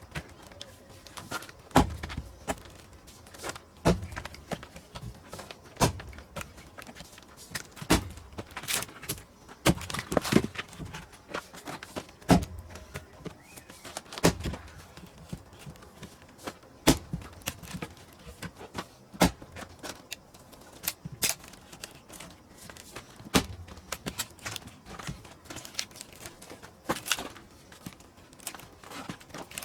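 Heavy blows on pine firewood being split, about one every two seconds, with smaller knocks and wood cracking between them.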